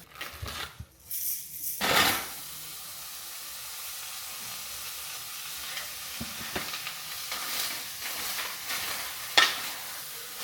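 Meat sizzling steadily in a frying pan, with a utensil stirring and knocking against the pan now and then. The louder clatters come at the start and again near the end.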